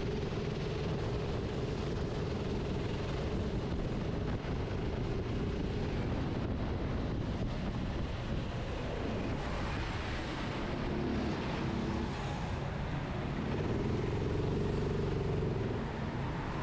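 Go-kart engine running under the driver's seat, its note holding steady at first, falling away in the middle, then coming back lower and louder near the end, with a constant rushing noise underneath.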